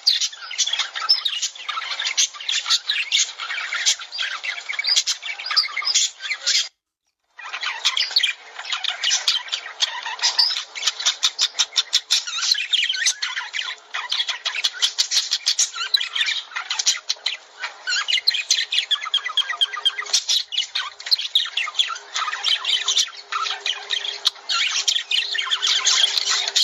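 A flock of lovebirds chattering: dense, rapid, high-pitched squawks and chirps without pause, breaking off completely for under a second about seven seconds in.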